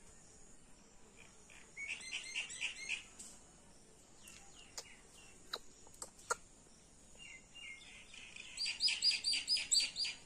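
Wild songbird chirping in two quick runs of repeated high notes, the second longer and louder, with a few sharp clicks in between.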